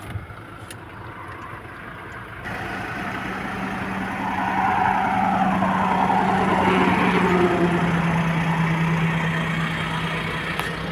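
A motor vehicle engine running, growing louder over several seconds, then dropping slightly in pitch and easing off, as when a vehicle drives close by.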